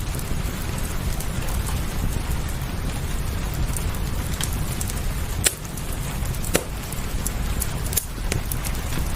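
Wood fire crackling, with sharp pops about five and a half seconds in and again a second later, over a steady wash of rain and a low rumble.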